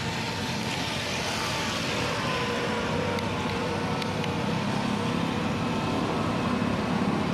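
Diesel vehicle engine running steadily, its pitch drifting slightly.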